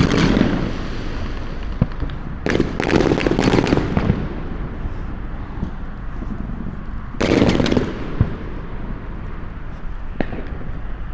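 Fireworks going off: a burst right at the start, a crackling volley of rapid pops from about two and a half to four seconds in, and another burst about seven seconds in. A steady low rumble runs underneath.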